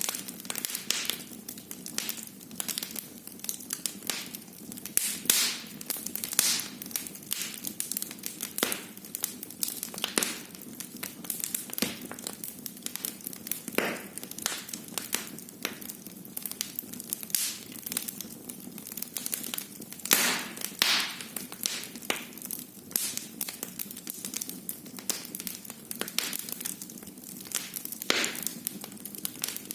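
Wood fire burning in a fireplace, crackling and popping irregularly, with a few louder snaps over a steady low hiss.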